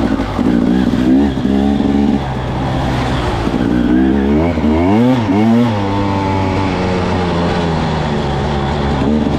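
Carburetted 300 cc two-stroke single-cylinder engine of a Husqvarna TE300 enduro bike, heard on board while riding, its pitch rising and falling with the throttle. About halfway through, two quick revs swoop up and drop back.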